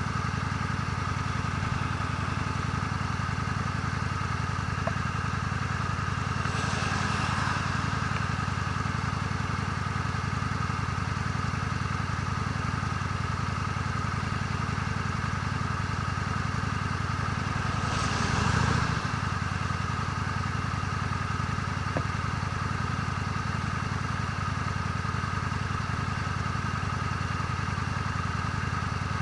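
Honda Steed V-twin motorcycle engine running steadily at a constant cruising speed, heard from the bike. Twice a brief whoosh swells and fades over it, about 7 and 18 seconds in.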